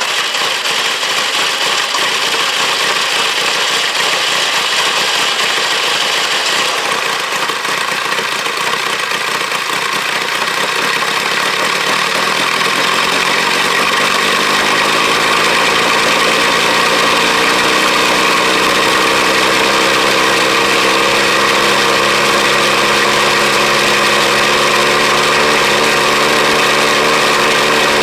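1983 Ford Ranger's carbureted four-cylinder engine idling just after a cold start, running with its air cleaner off. About halfway through, a low, even hum comes in and the engine gets slightly louder and settles.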